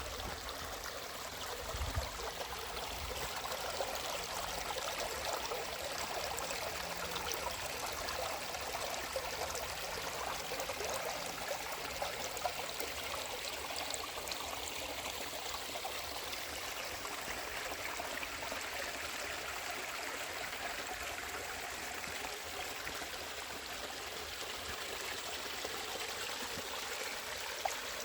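Creek water running and trickling over small cascades: a steady, even rush of flowing water. A brief low bump about two seconds in.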